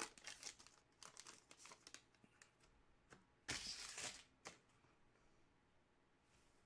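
Trading-card pack wrapper being torn open and crinkled by hand: faint crinkles at first, then a louder tear about three and a half seconds in.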